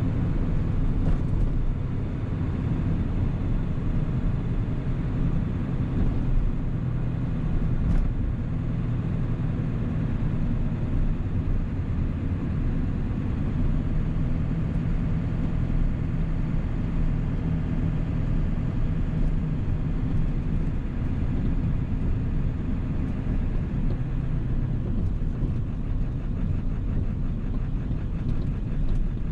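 1997 Ford 7.3 L Powerstroke turbo-diesel V8 running steadily while the vehicle is driven, a constant low engine drone.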